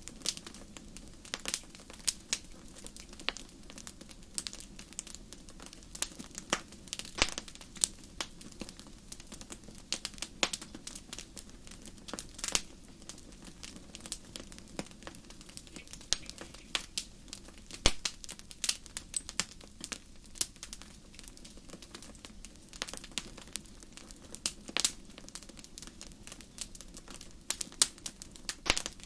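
Wood fire burning in a fireplace: irregular sharp crackles and pops over a low steady hiss.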